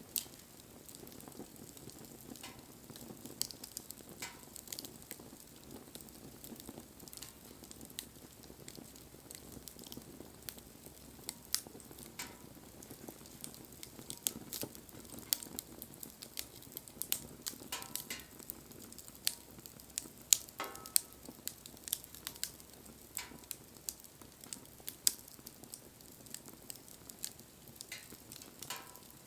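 Wood bonfire crackling, with irregular sharp pops over a soft low hiss of burning; the loudest pop comes about twenty seconds in.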